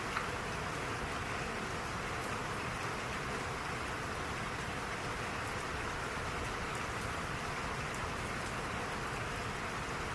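Steady rain falling, an even hiss with faint scattered drop ticks and one brief louder tick just after the start.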